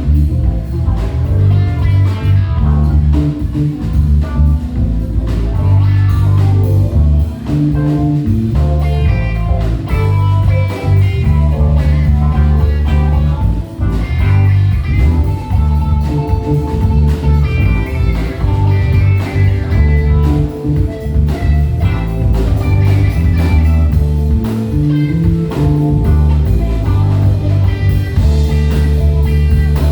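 Live band playing blues-rock: guitar over a strong bass line and drum kit.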